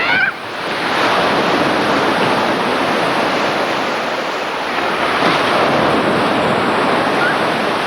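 Sea surf washing in steadily, a continuous rushing noise, with wind on the microphone.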